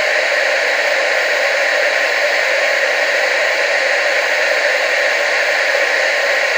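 Steady, unbroken TV static hiss: even noise, strongest in the middle and upper range, with little bass.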